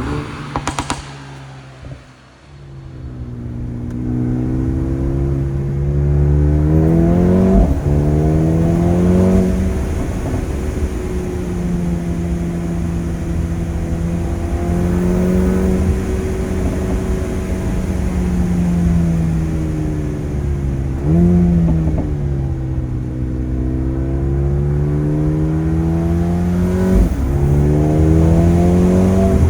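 Mercedes-AMG A35's turbocharged 2.0-litre four-cylinder engine and exhaust under hard acceleration, rising in pitch through the gears with sudden drops at upshifts about 8 and 27 seconds in. A few sharp cracks and a brief lull come near the start, and a quick rev blip about 21 seconds in.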